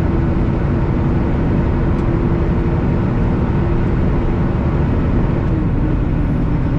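Semi truck running down the road, heard from inside the cab: steady engine drone and road noise, with a hum that dips slightly in pitch near the end.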